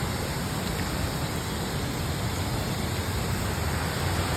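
Steady rushing noise of falling water from a waterfall in the gorge, with a low rumble beneath it.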